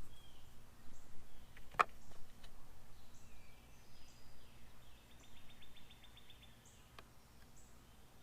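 Songbirds calling outdoors, with short high chirps and a fast trill of repeated notes about five seconds in, over a low steady hum. A sharp click about two seconds in is the loudest sound, with a fainter click near the end.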